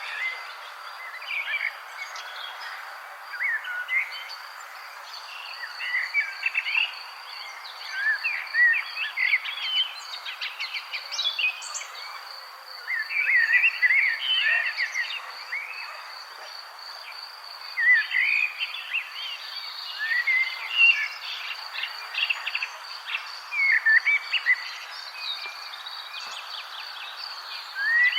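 Songbirds chirping and twittering in short bouts every few seconds, over a steady high insect trill of rapid pulses.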